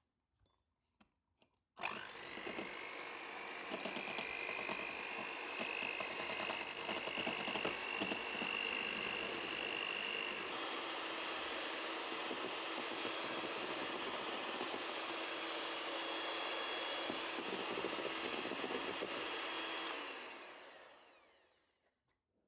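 A small electric motor appliance running steadily for about eighteen seconds. It starts abruptly, its whine rises slightly in pitch over the first several seconds, and it fades out near the end.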